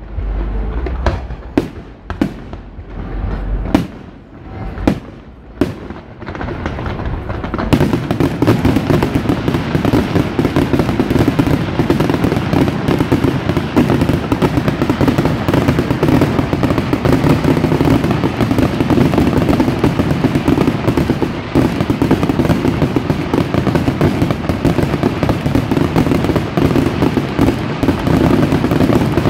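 Aerial fireworks: separate sharp bangs for the first several seconds, then from about eight seconds in a dense, unbroken barrage of rapid bangs and crackling, the show's finale.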